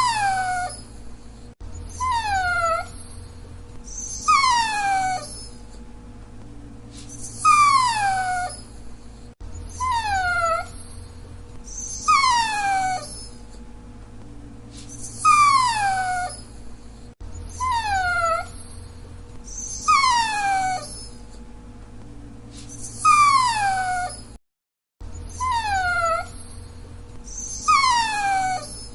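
A dachshund whining: a high, falling whimper repeated about every two seconds, each cry lasting about a second.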